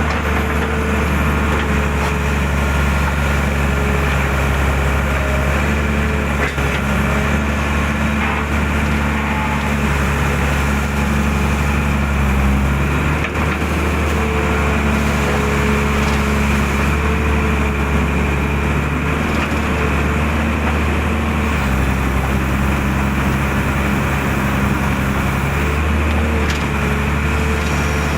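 Excavator's diesel engine running steadily at working speed, its pitch dipping and rising slightly a couple of times as the load changes.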